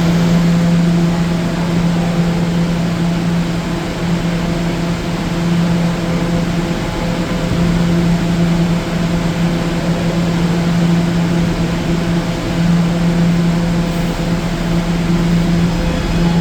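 An R211A subway train standing in the station, giving off a steady low electrical hum over a constant rushing noise.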